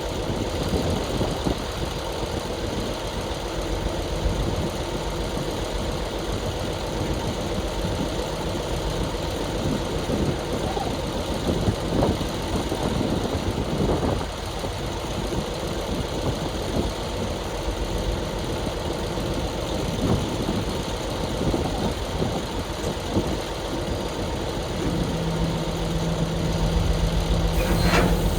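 Heavy diesel engine running steadily, with a couple of sharp knocks about halfway through.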